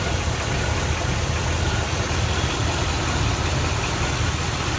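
1967 Buick Riviera's V8 engine idling steadily, after an exhaust manifold leak that had it sucking air was repaired.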